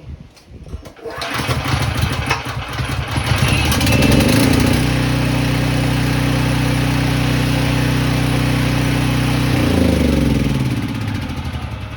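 Briggs & Stratton portable generator engine starting on choke after a won't-start repair. It catches about a second in, builds up and settles into a steady run, and near the end its speed drops and it gets quieter.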